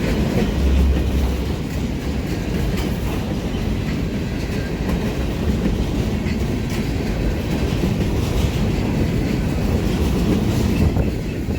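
Freight train of empty center-beam lumber cars rolling past, wheels clicking over the rail joints over a steady rumble, with a brief low thump about a second in.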